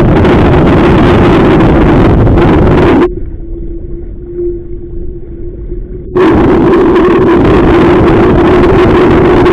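Strong wind buffeting the microphone, loud and rushing, over a steady low hum. About three seconds in, the rushing cuts out suddenly for about three seconds, leaving only the hum, then comes back just as suddenly.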